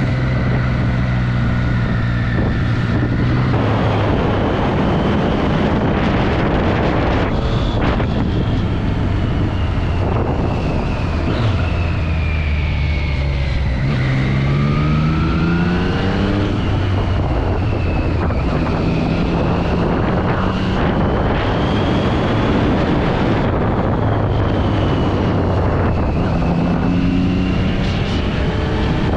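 Triumph Street Triple 675's inline three-cylinder engine through its stock exhaust, heard while riding. Its pitch climbs steeply under acceleration about halfway through and again near the end, and falls away in between.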